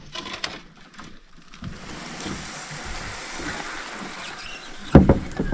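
Knocks and scraping from a canoe and its gear while the canoe is stuck in a shallow, overgrown creek, with a sharp, loud thump about five seconds in.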